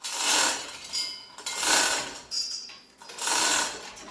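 Ratchet wrench working a bolt in repeated strokes: three rasping bursts of ratcheting about a second and a half apart, with light metallic clinks between them.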